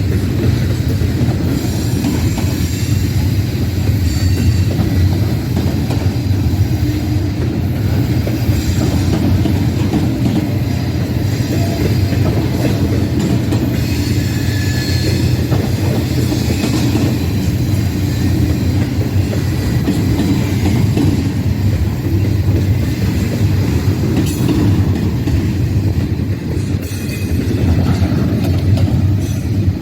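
Freight train rolling past, its cars rumbling steadily on the rails, with faint high wheel squeals now and then.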